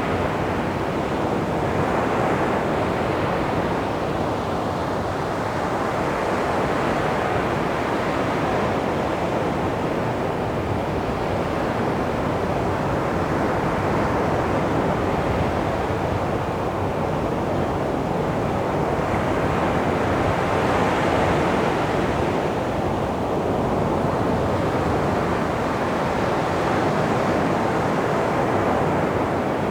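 Sea waves washing onto a beach: a continuous surf rush that swells and eases every few seconds.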